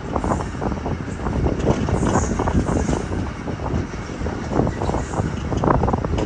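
Passenger train running along the track: a steady low rumble with dense, irregular clattering and rattling of wheels and carriage.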